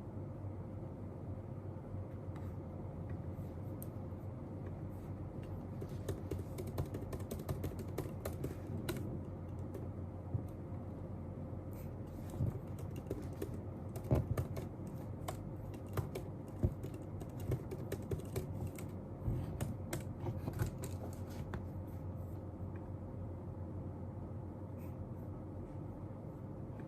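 Typing on a computer keyboard: irregular light key clicks, mostly in the middle stretch, over a steady low room hum with a faint steady tone.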